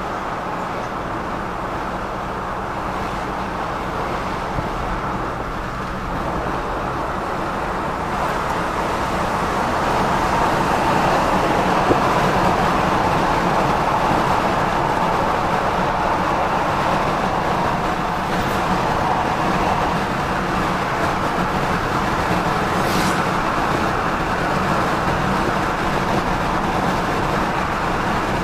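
Running and road noise of a 1982 Ford Galaxie Landau's V8, heard from inside the cabin while driving: a steady hum that grows louder about eight to ten seconds in, then holds.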